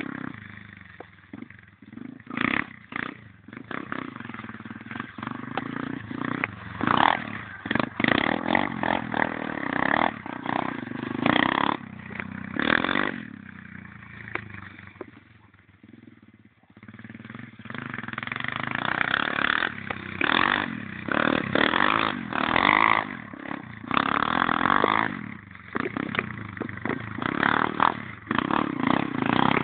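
Pit bike engine revving hard again and again, its loudness surging and falling, with a quieter stretch about halfway through.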